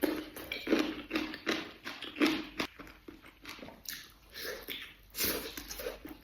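Close-miked chewing and mouth sounds of a person eating rice with jellied pork and duck eggs: an uneven run of short, wet smacks, several a second.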